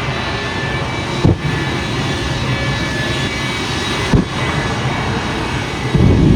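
Aircraft engine running steadily, with two brief thumps and a louder low swell near the end.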